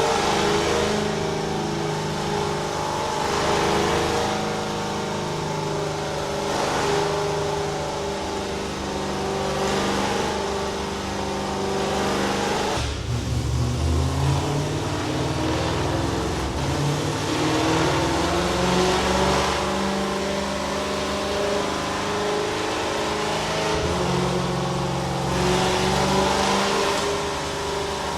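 BMW S65 4.0-litre V8 in a rally car running on a chassis dyno, holding fairly steady revs, dipping about halfway through, then slowly climbing in pitch.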